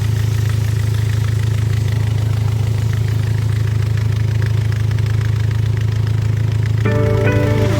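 Boat engine running at a steady speed, a low, even drone with no change in pitch.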